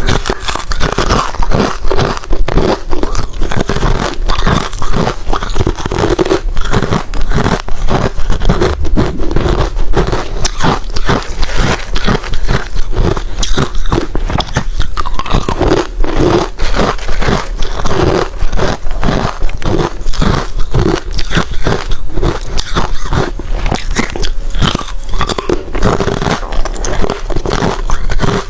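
Ice being bitten and chewed: a rapid, continuous run of loud, sharp crunches.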